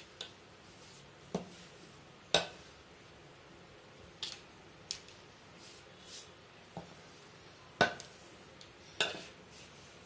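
Kitchen utensils and dishes knocking and clinking on a work surface: about ten separate sharp knocks, the loudest about two and a half seconds in and near eight seconds in.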